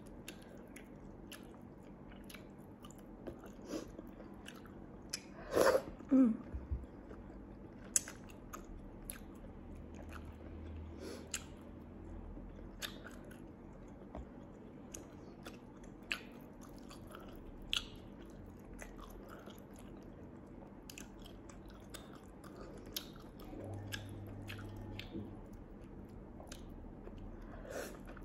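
Close-up eating sounds of chewing chewy snail meat in chilli sauce: wet mouth clicks, lip smacks and bites scattered throughout, with a louder wet burst about five and a half seconds in. Near the end, saucy fingers are sucked clean at the lips.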